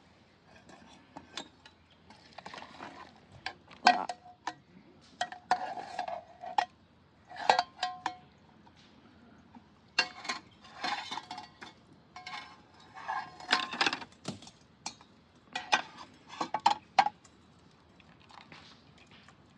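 Metal cookware and utensils clinking together in irregular clusters of sharp, briefly ringing knocks, as in handling pots and pans while cooking.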